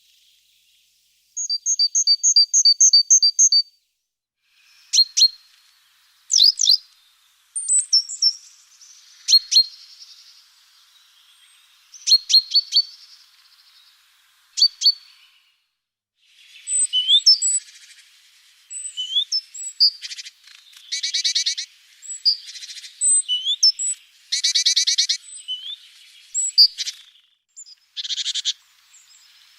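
Several small songbirds calling and singing: a phrase of two alternating notes repeated quickly about two seconds in, then scattered sharp, high call notes, and from about 17 seconds on a run of short buzzy trills.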